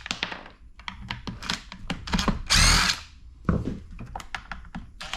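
A cordless drill driving a T27 Torx bit runs in one short burst about two seconds in, backing a screw out of a Stihl MS 180 C chainsaw's plastic housing; its motor pitch wavers as the screw loosens. Small clicks and rattles of the bit and the saw's housing being handled come before and after it.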